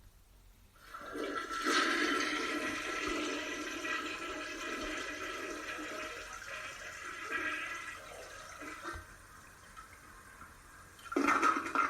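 Toilet flushing: a rush of water starts about a second in, then slowly dies away over several seconds.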